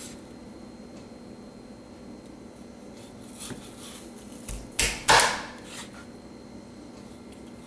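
A cleaver chopping through a bone-in chicken breast onto a cutting board: two sharp chops close together about five seconds in, with a few lighter knocks around them.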